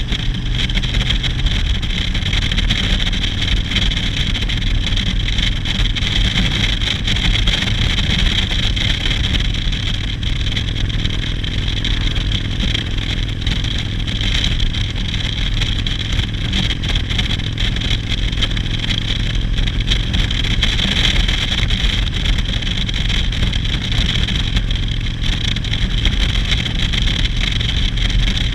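Motorcycle engine running steadily on the move, with no marked revving or gear changes.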